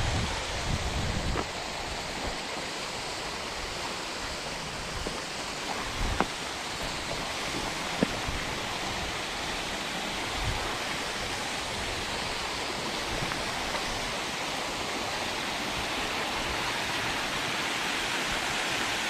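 Water of a small waterfall rushing steadily, with a few brief faint clicks in the first half and a low wind rumble at the very start.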